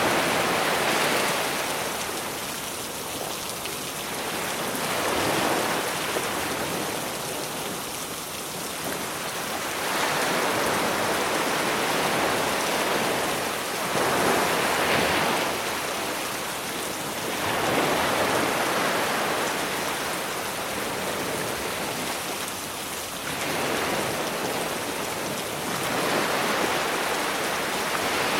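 Sea waves washing onto a beach, swelling up and falling back every four to five seconds, under a steady hiss of rain.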